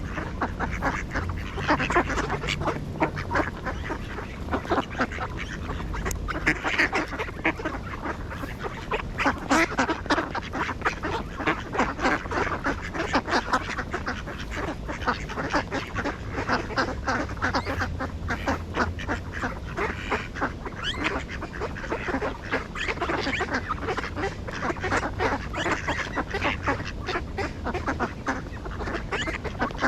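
A flock of ducks quacking continuously, many short calls overlapping one another.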